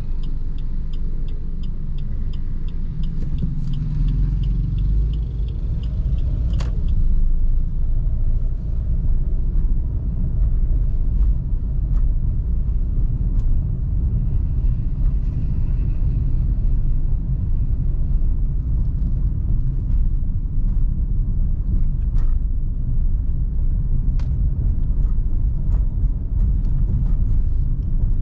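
A car driving, with a steady low engine and road rumble that builds a few seconds in. For the first seven seconds there is a rapid, regular ticking, which ends in a sharp click, and a few single clicks follow.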